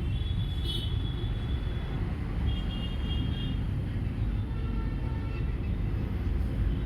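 Steady low vehicle rumble, with a few short high-pitched tones sounding briefly now and then.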